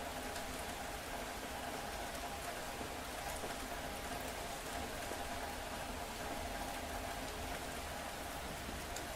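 Steady rain falling, an even hiss with a few sharp drop ticks now and then.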